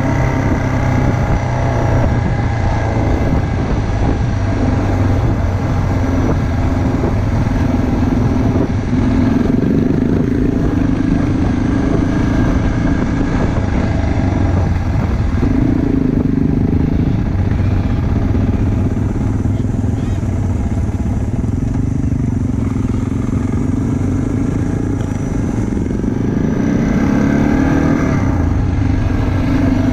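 Motorcycle engine running under way, its pitch rising and falling several times with the throttle, over a steady low rumble of wind.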